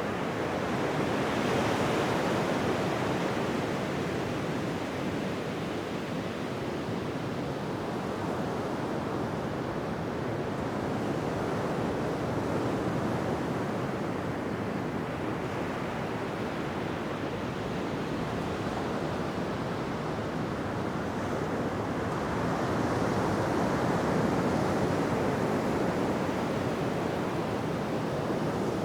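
Ocean surf washing onto a beach: a continuous rush of breaking waves that swells louder near the start and again near the end.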